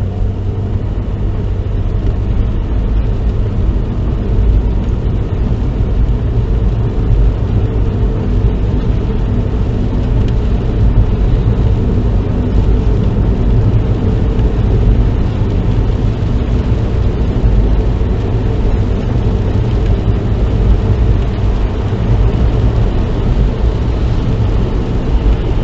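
Steady, loud drone of a car at speed heard from inside the cabin: engine and tyre road noise, rumbling low and even with no change.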